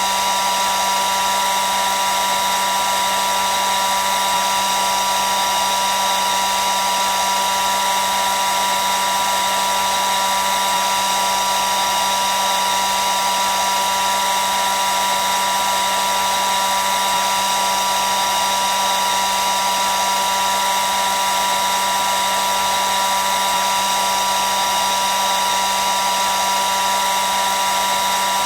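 Hair dryer running steadily: an even rushing of air with a constant high whine from its fan motor, unchanging throughout.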